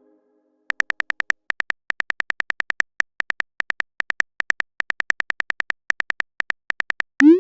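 Phone keyboard typing sound effect: a long run of short, even clicks in quick groups of taps. Near the end, a short rising swoop, a message-sent sound.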